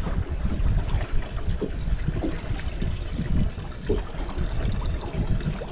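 Sea water slopping and trickling against the hull of a small anchored boat, over a low uneven rumble.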